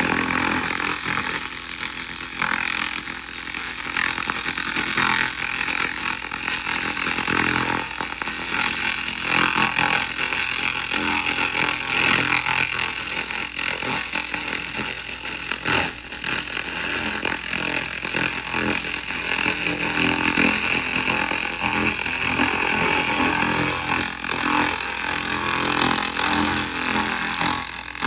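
A 2000 W laser rust remover ablating rust off metal: a steady, dense crackling hiss that dips slightly now and then.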